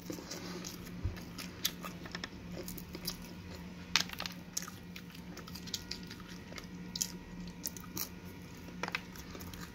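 A person chewing and biting pizza crust close to the microphone, with scattered small crunches and mouth clicks over a faint steady low hum.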